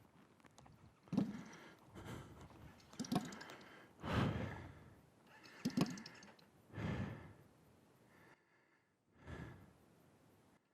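A person breathing heavily: a run of loud, gasping exhalations about one a second, spacing out and fading near the end.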